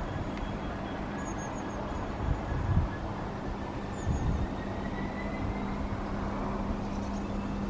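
Diesel locomotive running, a steady engine hum with a faint whine slowly rising in pitch near the end. Wind buffets the microphone a couple of times.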